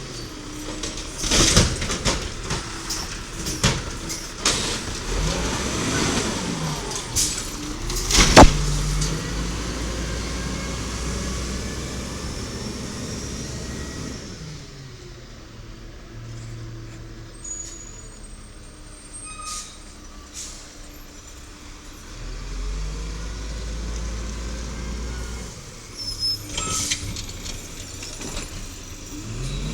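1993 WhiteGMC diesel garbage truck with an Amrep automated side-loader arm at work: the engine revs up and settles again several times while the arm cycles, with repeated metal clanks and knocks and one loud bang about eight seconds in. Quieter engine running through the middle, with more knocks near the end.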